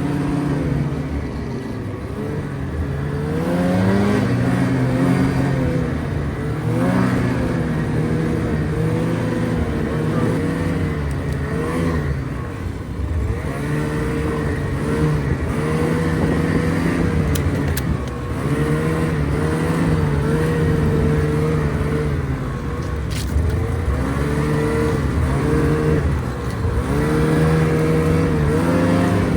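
A motor vehicle engine running under way, its pitch rising and falling again and again as the throttle opens and closes.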